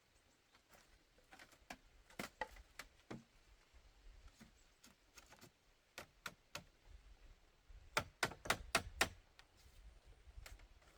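Irregular sharp knocks and taps of hand work on bamboo, with a quick run of about five hard strikes two-thirds of the way through.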